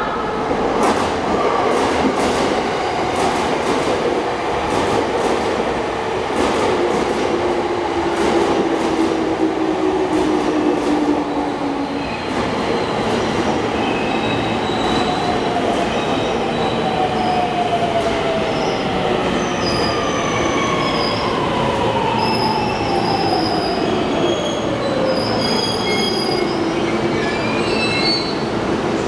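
JR E231-500 series Yamanote Line electric train pulling into the platform and braking to a stop. Its wheels clack over the rail joints, then the motor whine falls in pitch as it slows, with short high squeals from the wheels and brakes.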